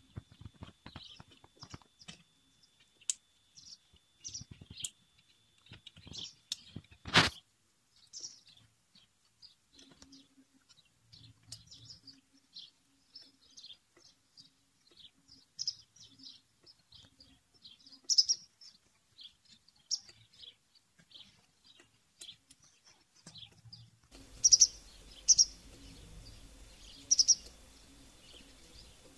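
Small birds chirping again and again in quick short notes, with a single sharp knock about seven seconds in and a few louder chirps near the end.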